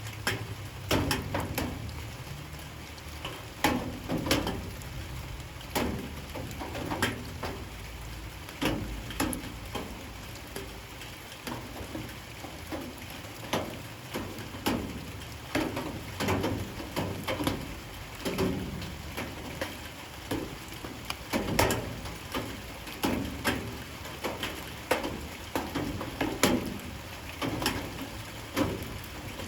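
Light rain with a steady soft patter and irregular louder drops striking a surface every second or so.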